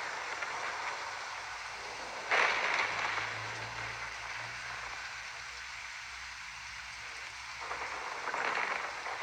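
Rain falling steadily in a thunderstorm, with a sudden loud thunderclap about two seconds in, followed by a low rumble that fades out.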